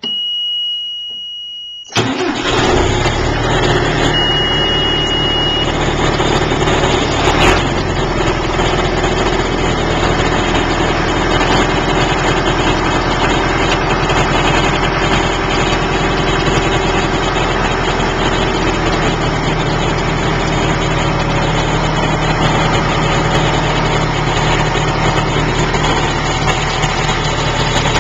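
A steady high warning beep sounds, then about two seconds in the John Deere 5525 tractor's diesel engine catches on a cold start and settles into a steady idle. The beep sounds again briefly a couple of seconds after the engine catches.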